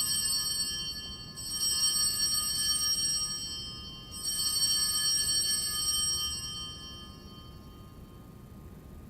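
Altar bells rung at the elevation of the consecrated host: a high, shimmering ring struck twice more, about a second and a half in and again about four seconds in, each ring dying away slowly until only faint room noise remains.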